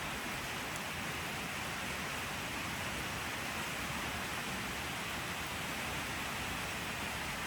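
Steady rain falling, an even hiss without separate drops or changes.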